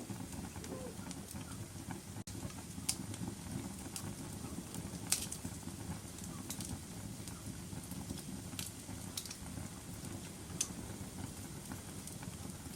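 Wood fire crackling in a fireplace: a steady low rumble of burning with sharp pops and snaps every second or two, the loudest about five seconds in.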